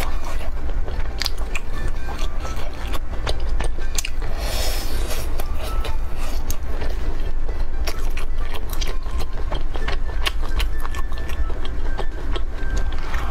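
Close-miked chewing and crunching of chili-coated grilled skewers: many sharp crackling clicks at an uneven rate, with a breathy hiss about four seconds in, over a steady low hum.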